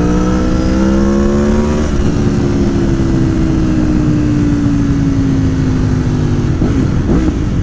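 Aprilia Tuono V4 Factory's V4 engine pulling up through the revs for about two seconds, then shifting up a gear with a sudden drop in pitch and running on with a tone that slowly falls as the bike eases off.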